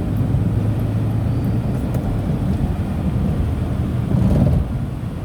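Steady hum of a moving Tata Nano's small two-cylinder petrol engine with road noise, heard from inside the cabin; it swells briefly about four seconds in.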